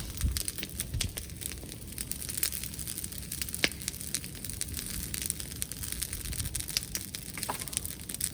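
Bonfire crackling, with scattered sharp pops and snaps over a low wind rumble on the microphone.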